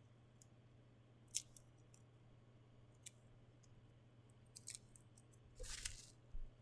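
Faint handling of a figure's packaging: a few scattered sharp clicks and crinkles, then a longer rustle about five and a half seconds in. A low steady hum lies underneath.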